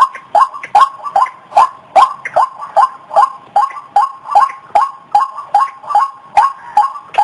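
White-breasted waterhen (ruak-ruak) calling: a loud, unbroken series of short croaking notes, about two to three a second.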